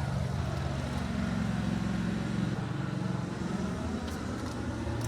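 Steady low mechanical hum from a running motor.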